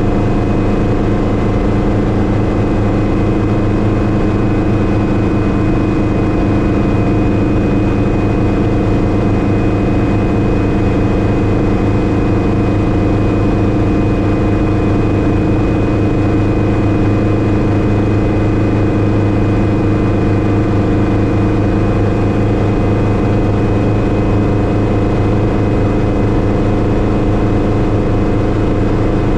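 Hughes 269C (Schweizer 300C) light helicopter running steadily: its four-cylinder Lycoming piston engine and rotor drone at an unchanging pitch, with a thin steady high whine above.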